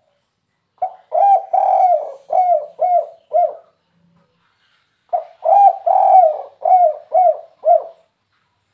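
Spotted dove (tekukur) cooing in the 'kuk 3' call type: two phrases about a second and a half apart, each a short opening note followed by five coos, the second coo the longest.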